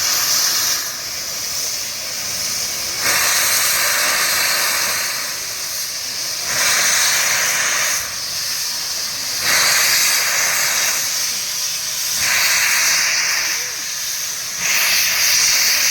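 Steam hissing from a JNR C62 steam locomotive standing in steam. The hiss is loud and shifts back and forth between a higher and a lower hiss every two to three seconds.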